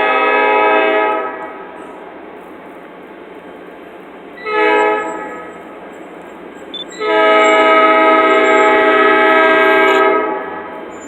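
Locomotive air horn blowing for a grade crossing: a long blast that ends about a second in, a short blast near the middle, then a final long blast of about three seconds. This is the close of the long-long-short-long crossing signal, with steady train noise between the blasts.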